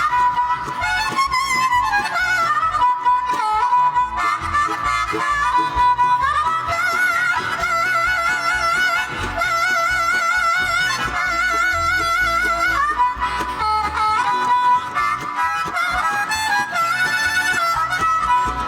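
Bluegrass band playing an instrumental break: a lead melody instrument, bending and with wavy vibrato, played over the band's accompaniment.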